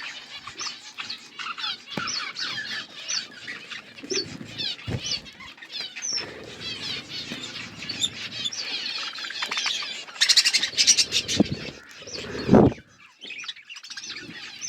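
Budgerigars chirping and warbling in quick, overlapping short notes, with a louder burst of rapid sharp chirps about ten seconds in and a low thump about twelve seconds in.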